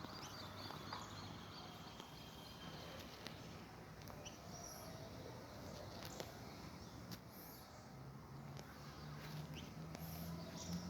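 Faint outdoor ambience with scattered short high chirps and clicks. A low hum builds in over the last few seconds.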